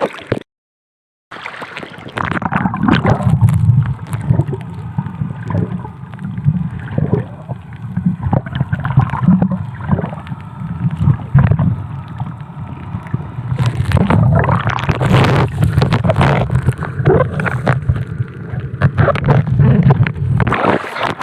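Muffled, churning water noise with wind buffeting the microphone, broken by about a second of dead silence near the start.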